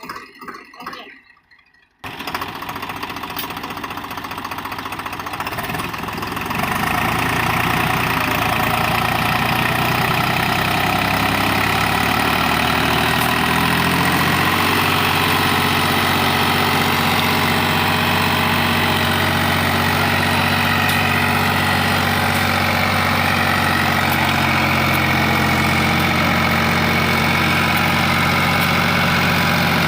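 Swaraj 735 FE tractor's three-cylinder diesel engine running. It cuts in suddenly about two seconds in, grows louder over the next few seconds, then holds a steady note, its low tone shifting about halfway through.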